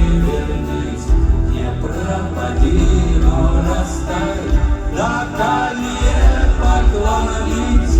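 A live rock band playing, with a heavy low beat recurring about once a second and a melodic line above it.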